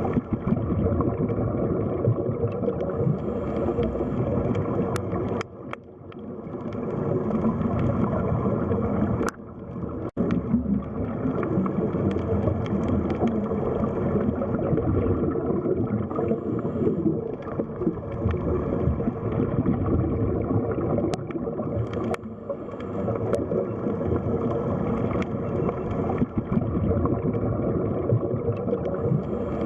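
Underwater ambience: a steady low rumble with gurgling of water, briefly dropping away twice, about six and ten seconds in.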